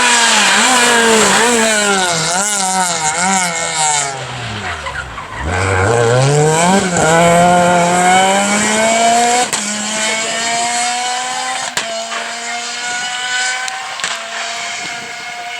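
Renault Clio R3 rally car engine at high revs, blipped up and down in the first few seconds. Its pitch drops very low about five seconds in, then climbs again and holds with small steps. Two sharp cracks come near the middle and just after.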